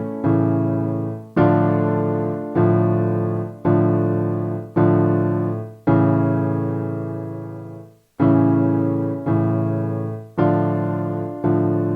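Keyboard playing slow piano chords, one struck about every second and left to fade, with one chord held for about two seconds in the middle.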